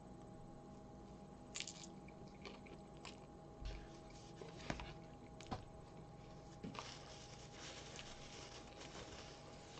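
Faint eating sounds from a person digging into cheese-sauce-covered bacon fries by hand: soft squishing and chewing with scattered small clicks and crackles, busiest near the end.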